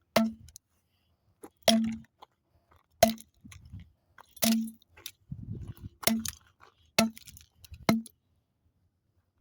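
A hammer striking a wrecked microwave seven times, each blow a sharp bang with a short metallic ring, with broken pieces clinking and crunching between blows.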